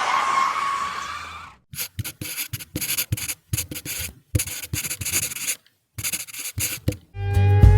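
A series of short, irregular scraping strokes with brief silences between them, after a squealing noise that fades out in the first second and a half. Guitar music starts near the end.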